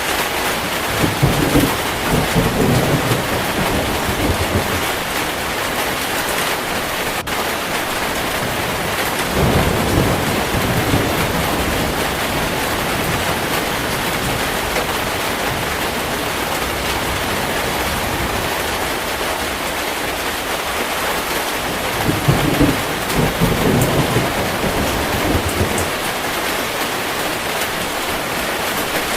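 Heavy rain falling steadily, with thunder rumbling three times: just after the start, about ten seconds in, and again near the end.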